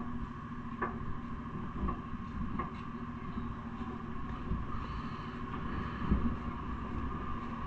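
Steady riding noise from a bike on the road: a low rumble with a steady hum and a few faint ticks, and wind on the microphone.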